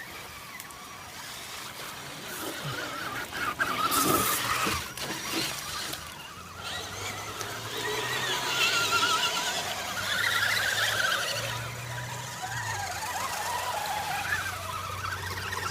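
Radio-controlled car's motor whining as it drives through mud, its pitch rising and falling with the throttle, with a few sharp clicks about four to five seconds in.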